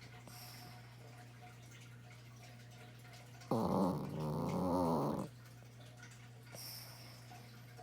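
A sleeping dog snoring: one long, buzzy snore with a wavering pitch, lasting nearly two seconds, starting about three and a half seconds in. Fainter breaths come before and after it, over a steady low hum.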